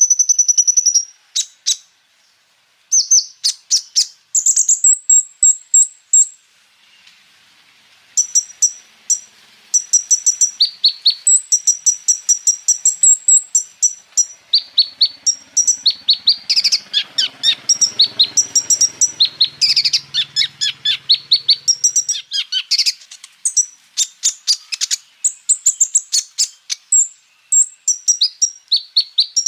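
Kolibri ninja (a sunbird) singing a long, fast, high-pitched song of rapid sharp chirps and trills in quick rolling runs, with two brief pauses early on.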